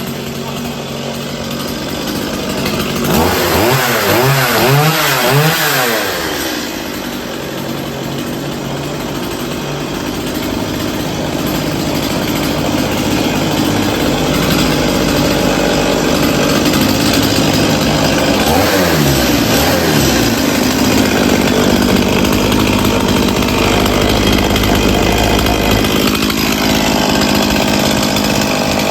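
Two-stroke chainsaw running on half choke, revved up and down a few times about three to six seconds in and again briefly around nineteen seconds, otherwise running steadily.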